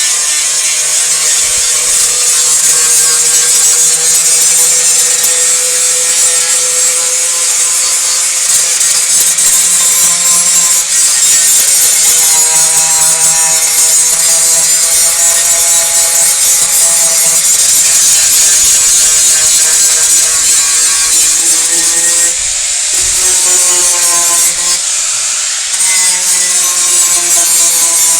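Power sander running on the repair area of a car body panel: a loud, steady abrasive hiss over a motor whine, dropping out briefly twice near the end as the tool is lifted.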